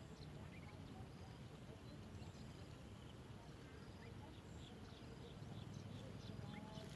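Faint bird chirps over a low steady rumble. Scattered short high calls, then a quick run of about three high notes a second near the end.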